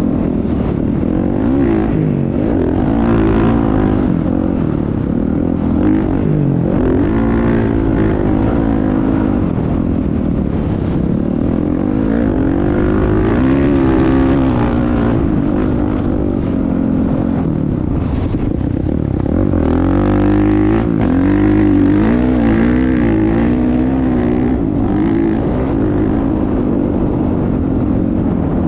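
Motocross bike engine running, revving up and easing off again and again, its pitch rising and falling every second or two.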